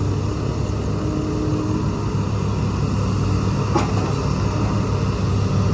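Diesel engine of heavy construction machinery running steadily, with a single short clank about two-thirds of the way through.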